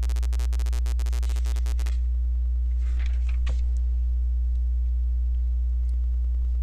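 A steady low hum throughout, with a fast, even electronic pulse over it that stops about two seconds in. Then a few faint clicks of plastic LEGO pieces being handled.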